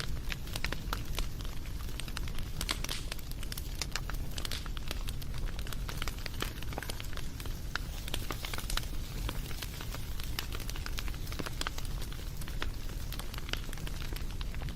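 Wood fire crackling: frequent irregular sharp pops and snaps over a low steady rumble of the flames.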